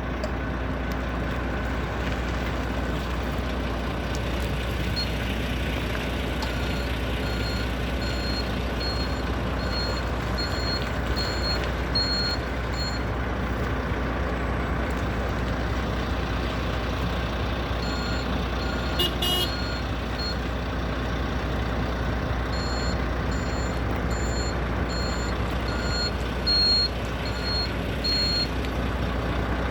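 Hyster MT70 electric tow tractor's warning beeper sounding a high beep about twice a second, in several spells, over a steady low hum.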